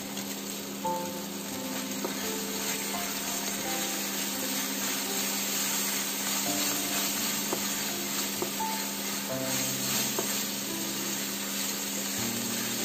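Vegetables and sauces sizzling in a frying pan while a wooden spatula stirs and scrapes through them, with a few light knocks of the spatula against the pan. A quiet background melody plays underneath.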